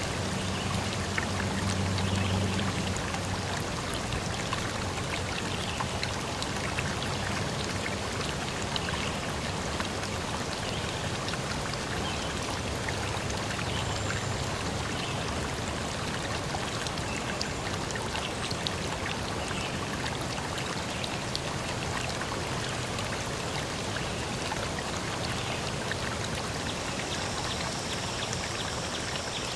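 Steady rush of water with many small drip-like ticks through it. Near the end, steady high-pitched tones like insects trilling come in.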